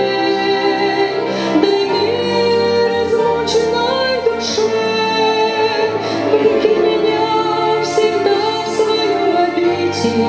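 Slow Christian worship song: a woman singing a held, gliding melody over a backing track of sustained instrumental chords.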